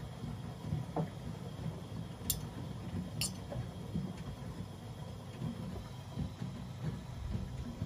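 Front-loading washing machines running an easy-care wash: a steady, uneven low rumble from the turning drums, with a soft thump about a second in and two sharp clicks at about two and three seconds.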